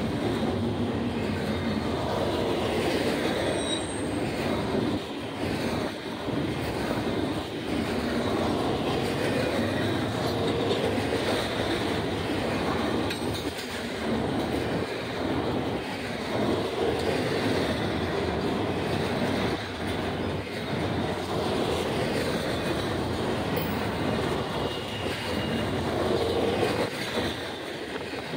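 Double-stack intermodal container train passing close by, the steel wheels of its well cars rolling over the rails in a steady, loud rumble.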